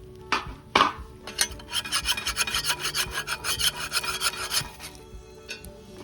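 Quick rasping, scraping strokes, about four or five a second for some three seconds, after two sharper single scrapes near the start.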